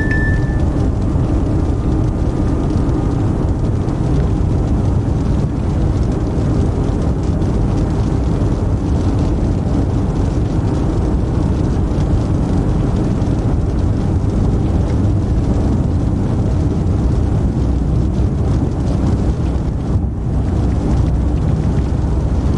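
Steady road and engine noise inside a moving police patrol car's cabin, with a short high beep right at the start.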